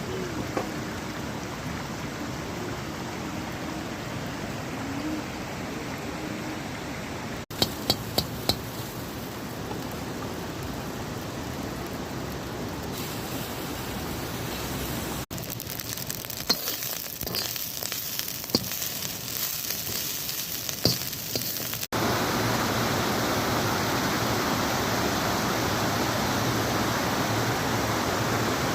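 Steady rushing of running water, in several cut-together takes, louder and even in the last few seconds. Sharp clinks of utensils about a second in after the first cut, and scattered clinks in the middle.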